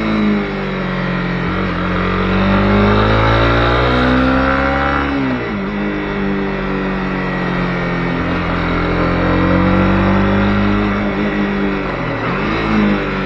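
Honda CB250R's single-cylinder engine under way, its pitch rising and falling with the throttle, dropping sharply twice: about five seconds in and again near the end.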